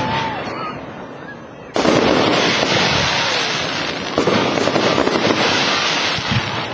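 Fireworks going off in dense, rapid crackling and popping. The barrage thins out, starts again suddenly and loud about two seconds in, and surges once more about four seconds in.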